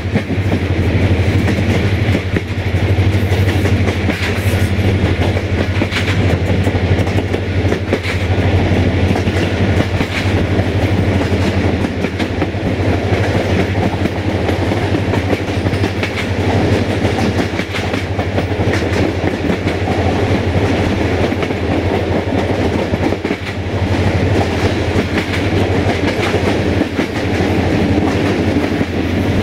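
Passenger train running steadily, heard from an open coach window: wheels clicking over rail joints over a constant low drone and rushing noise.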